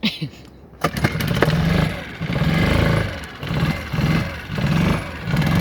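A small dinghy outboard motor starting up about a second in and running unevenly, its sound rising and falling roughly once a second as it surges. It is coming back to life after being submerged in saltwater, with its carburetor cleaned and a new spark plug.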